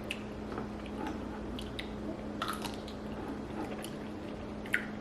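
Someone chewing a ranch-seasoned pickle: soft, scattered crunches and wet mouth sounds over a faint steady low hum.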